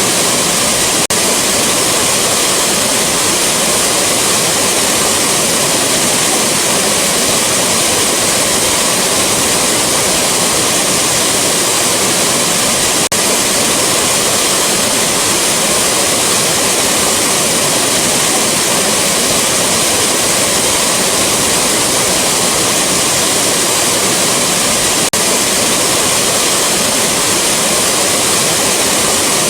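A rushing waterfall: a loud, steady roar of falling water, heaviest in the hissy upper range. There are brief slight dips in it about every twelve seconds, where the loop repeats.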